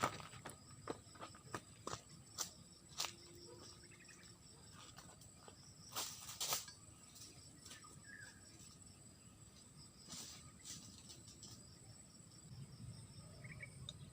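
Faint, steady high-pitched insect drone with scattered sharp clicks and taps, the loudest pair about six seconds in.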